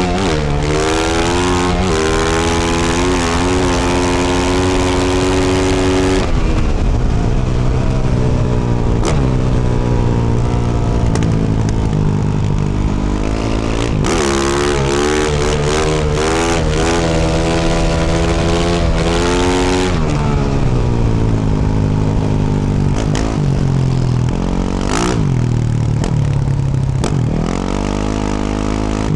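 2024 Yamaha YZ450F's 450 cc single-cylinder four-stroke engine through a Yoshimura RS-12 exhaust, ridden hard. The engine note climbs with the throttle and drops sharply several times as the throttle is rolled off, then winds up again.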